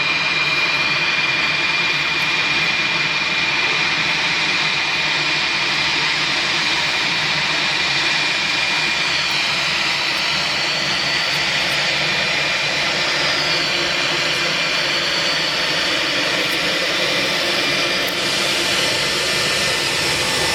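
Jet airliner engines running close by: a loud, steady roar with a high whine that dips and rises in pitch several times.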